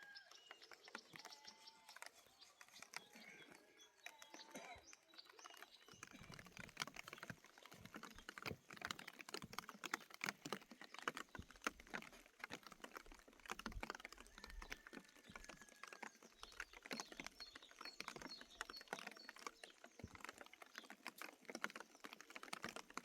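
Faint, irregular clicking and tapping that grows denser from about six seconds in, with a few thin bird chirps in the first seconds.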